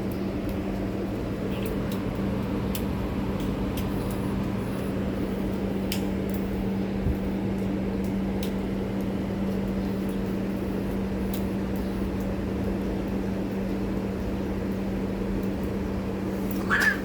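A stray cat meows briefly near the end, over a steady low hum and a few faint clicks.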